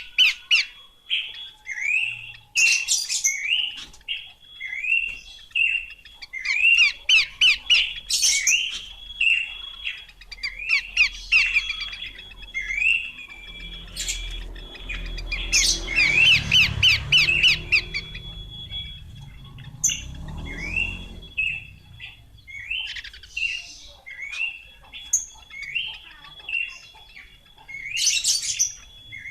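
Horsfield's babbler calling: clusters of short, sharp notes repeated in quick succession, over a thin steady high tone. A low rumble comes in for a few seconds midway.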